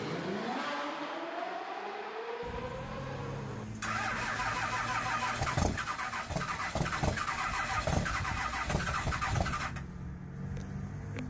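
A vehicle engine, most likely a diesel pickup's, is cranked and started from cold, then runs unevenly. A rising whine comes first, and the engine catches about four seconds in.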